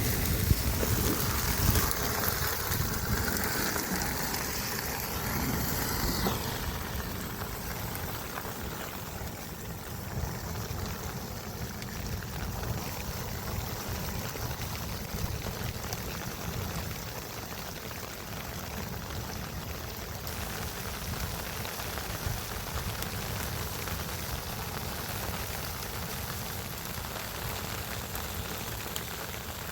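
Steady wash of running water noise. It is louder and brighter for the first six seconds or so, then settles to an even level.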